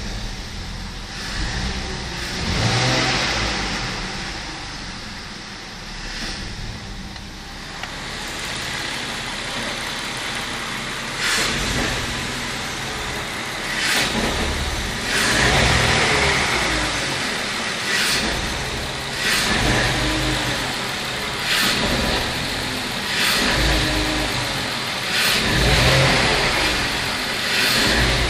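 BMW M54 2.2-litre straight-six engine blipped repeatedly from idle, its note rising and falling with each rev, the blips coming closer together in the second half. It is being revved to show a stumble, a choking hesitation between about 600 and 1100 rpm, which the owner suspects comes from the idle air control valve, a vacuum leak or the DISA valve.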